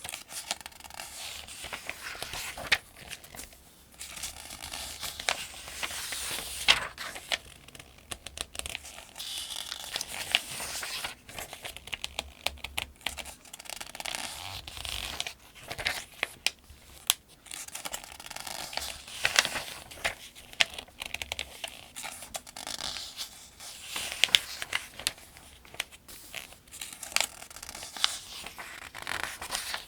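Paper pages of a thin almanac being turned one after another at a steady pace: repeated crisp rustles and swishes with small snaps as each page flips over.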